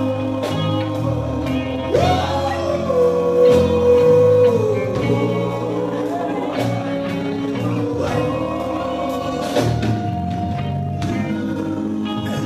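Live gospel group singing with a band, guitar among the instruments; a long note is held from about two seconds in until about four and a half seconds in.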